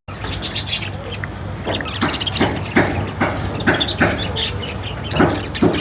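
A bird chirping repeatedly in short sharp calls, about two a second, over a steady low hum.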